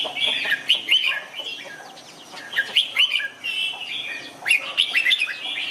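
Red-whiskered bulbuls singing, short chirping and whistled phrases overlapping one another without pause. This is the bulbul song played as a model for teaching young cage birds.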